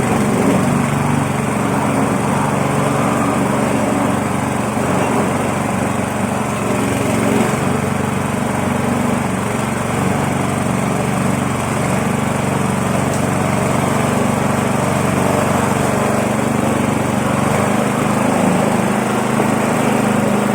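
Coconut husk peeling machine running steadily, an even mechanical drone with no change in level.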